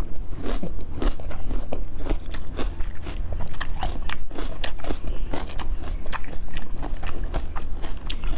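Close-miked chewing and biting of a green jelly dessert with round pearls in it: a dense run of small sharp clicks and smacks from the mouth, over a steady low hum.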